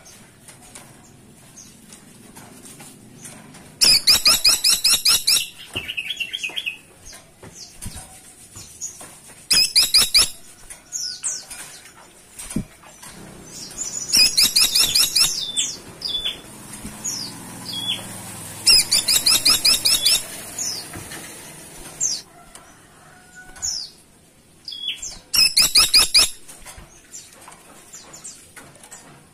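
Caladi tikotok woodpecker (grey-and-buff woodpecker) calling: five loud bursts of fast, high, rattling trills, each one to two seconds long and about five seconds apart, with short single chirps between them.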